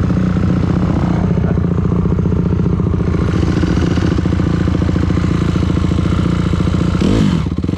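Dirt bike engine running at a steady pitch. Near the end the revs drop briefly and climb straight back up.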